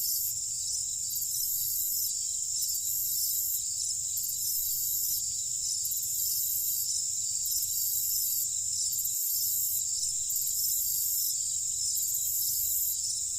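Night insect chorus of crickets: a dense, steady high-pitched trilling, with a shrill top layer that swells and fades about once a second. A faint low rumble lies underneath.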